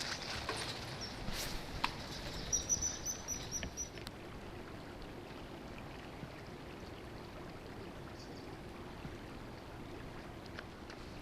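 Common kingfisher giving a quick series of about six short, high, sharp calls about two and a half seconds in, over a steady background hiss.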